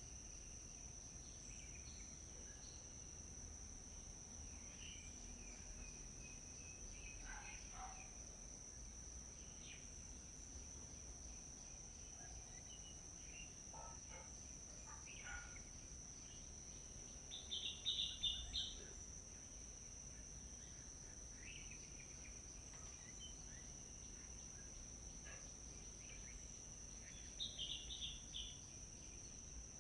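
Outdoor nature ambience: a steady, high-pitched insect drone runs throughout, with scattered short bird chirps over it. Two louder, brief clusters of bird calls come about 18 seconds in and again near the end.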